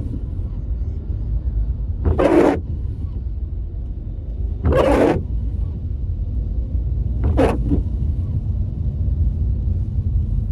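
Car cabin on the move, with a steady low road and engine rumble and a windscreen wiper swishing across the wet glass about every two and a half seconds.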